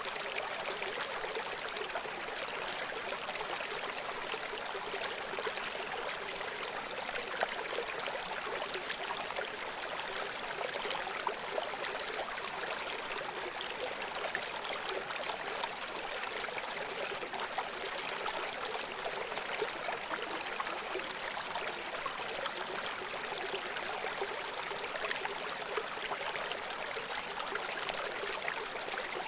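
Running stream: water flowing and trickling over rocks in a steady, even rush with small splashes.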